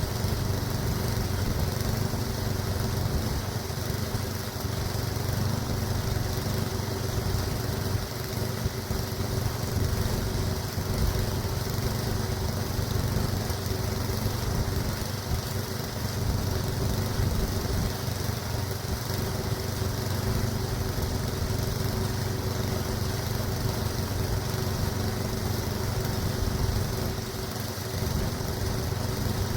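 Small pull-start gasoline engine running steadily at an even speed, with no stalls or changes in pitch.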